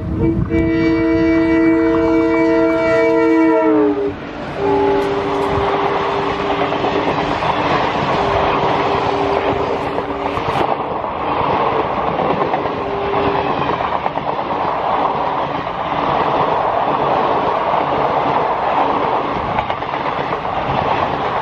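Air horns of a pair of ALCo diesel locomotives sounding a loud multi-note chord whose pitch drops about four seconds in as the locomotives pass, then a lower two-note horn held for several more seconds. After that, the passenger coaches clatter and rumble past on the rails.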